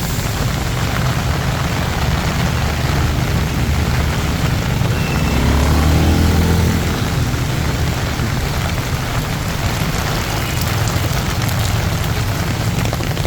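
Heavy rain pouring steadily on a city street with traffic passing on the wet road; about six seconds in a vehicle's engine passes close by, the loudest moment.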